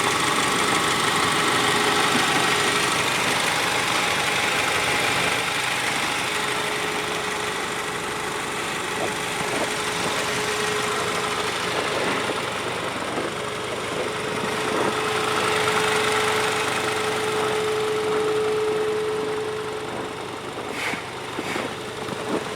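Tank 300 SUV's engine idling with a steady hum, with a few short clicks near the end.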